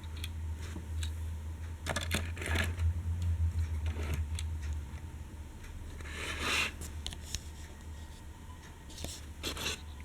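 Die-cast toy train being handled and moved over a surface: irregular scrapes, rubs and small clicks, heaviest a couple of seconds in, about six seconds in and near the end, over a steady low hum.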